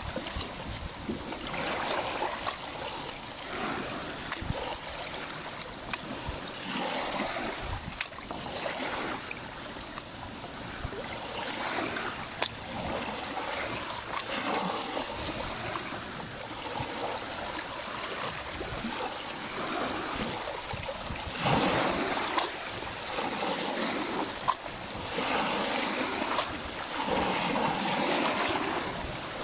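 Small lake waves lapping and splashing at the water's edge, surging every couple of seconds and growing louder past the middle.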